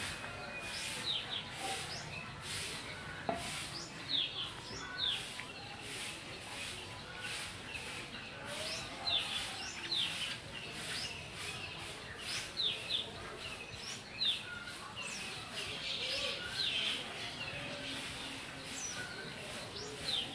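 Small birds chirping on and off, with short quick notes repeated every second or so and faint clicks between them.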